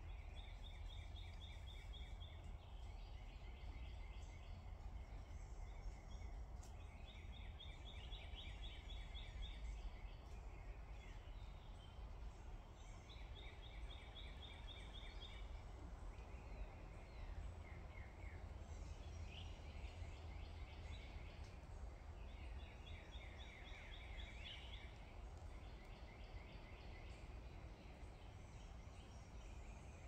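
A songbird singing a rapid trill of about two seconds, repeated every few seconds, over a faint low rumble.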